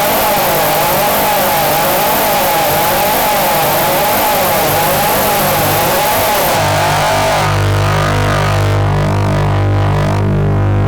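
Harsh experimental noise music: a loud wall of hiss with a warbling, wavering tone in the middle range. About two-thirds of the way through, the hiss thins and a low, steady buzzing drone with a repeating pulse takes over.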